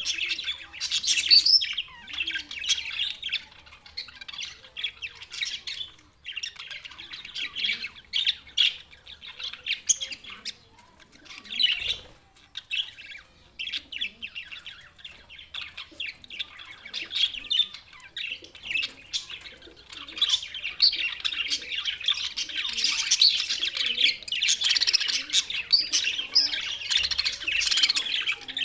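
Budgerigars chirping and chattering in quick, continuous calls, with a lull near the middle and a denser, louder stretch in the last third.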